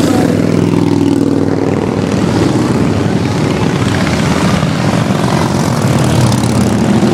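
A stream of motorcycles riding past in a procession, many engines running at once and overlapping, their pitches shifting as bikes go by.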